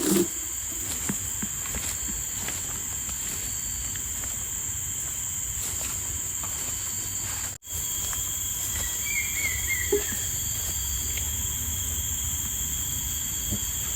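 Insects chirring steadily as a continuous high-pitched drone over a low background hiss. The sound drops out abruptly for a moment about halfway through.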